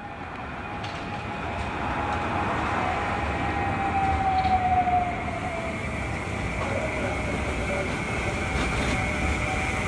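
CAF Urbos AXL tram running on rails, with a steady rumble and an electric drive whine that falls in pitch about halfway through. The sound fades in at the start.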